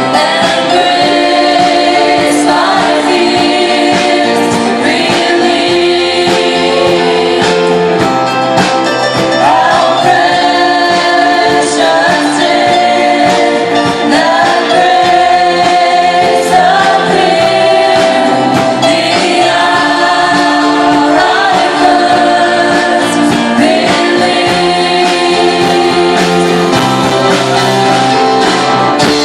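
Live worship band with several singers performing a gospel-style hymn, the voices holding long sung notes over the band.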